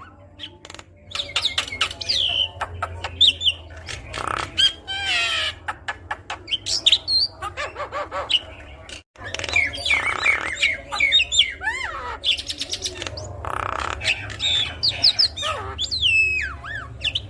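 Javan myna singing a varied, chattering song of whistled rising and falling notes, harsh squawks and quick clicking runs, with a brief gap about nine seconds in.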